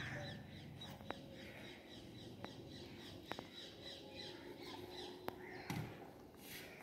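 Faint birds chirping and calling in short repeated notes, with a few scattered sharp clicks.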